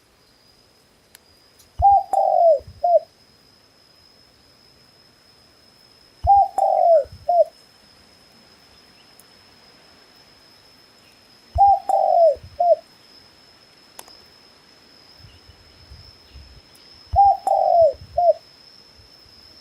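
A dove cooing: four phrases about five seconds apart, each a short note, a longer falling note and a short final note.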